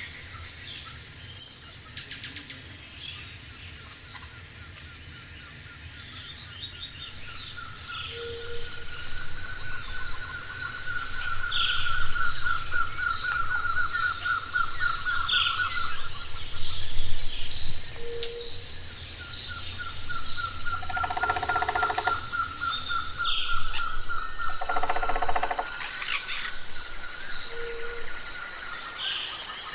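Several birds chirping and calling together, with a long rapid trill twice, a short low hoot about every ten seconds, and two harsher calls in the second half.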